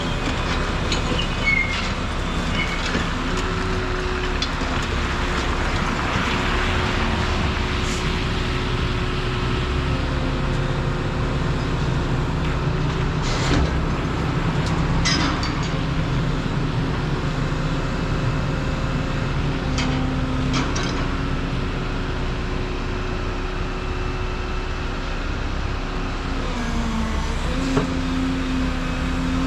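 Volvo EC235EL excavator running steadily as it works, its engine and hydraulics changing pitch under varying load, with a dip and rise near the end. A few sharp knocks or clanks come through at intervals.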